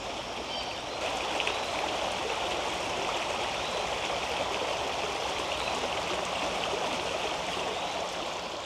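Steady rush of flowing creek water, swelling slightly about a second in.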